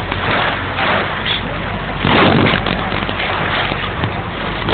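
A ferry's engine drones steadily and low under loud, gusting wind noise on a phone's microphone; the gusts surge hardest about two seconds in.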